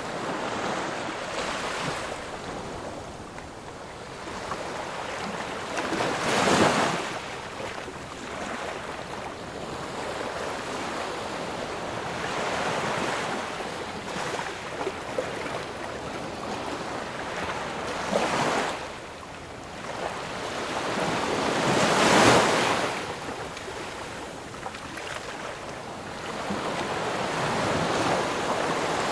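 Ocean waves breaking and washing in continuously, with louder breakers about six seconds in, around eighteen seconds and around twenty-two seconds in.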